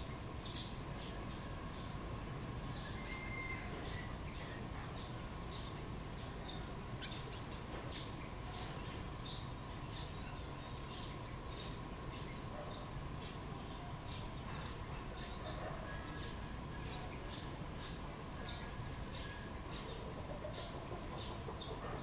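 Small songbird chirping: short, high single notes repeated about once or twice a second, over a faint steady hum.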